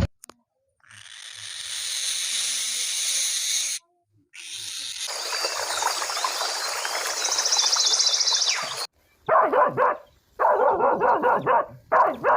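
Two long hisses, then a small dog barking and yapping in quick bursts.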